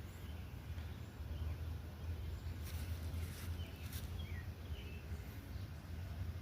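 Outdoor ambience with a steady low rumble, a few short bird chirps past the middle, and two sharp clicks a little before the chirps.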